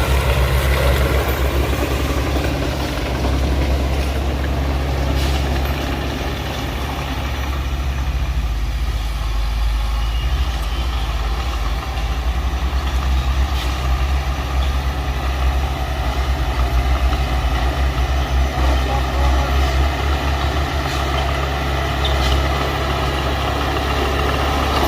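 Heavy diesel earthmoving machinery running steadily, a deep engine drone with a few faint clanks.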